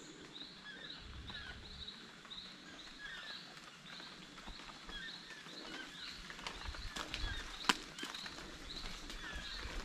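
Jungle ambience: a bird calling over and over in short chirps, about two a second, over a faint background hiss. A few sharp clicks come near the end, one louder crack among them about three-quarters of the way through.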